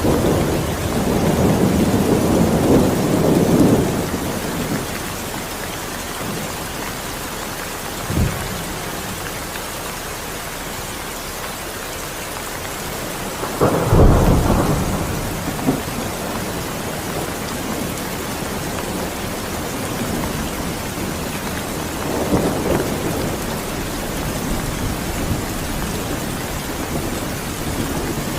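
Steady rain falling, with thunder rumbling several times over it: a rumble dying away over the first few seconds, a short sharp crack about 8 seconds in, the loudest peal about halfway through, and a softer rumble later on.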